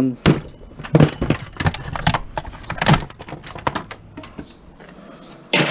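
Hard plastic and metal parts of an electronics case being handled and pried apart: a run of sharp clacks and cracks for the first three seconds or so, thinning out after.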